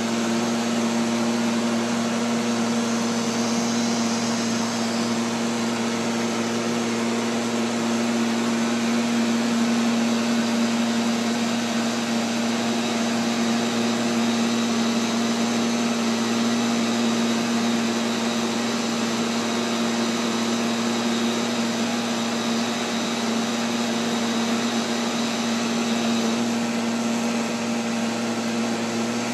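Neato XV-11 robotic vacuum cleaner running: a steady motor and brush hum with a constant low tone, heard from a camera mounted on the robot.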